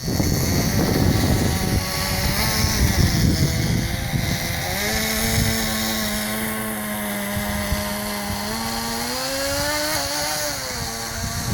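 Small nitro glow engine of a Kyosho Blizzard radio-controlled snowcat running. Its pitch holds steady for a few seconds midway, then rises and falls back near the end, over a low rumble.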